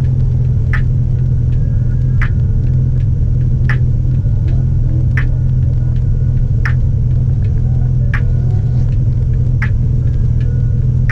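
Steady low rumble of a car heard from inside the cabin, with a short sharp sound repeating about every second and a half.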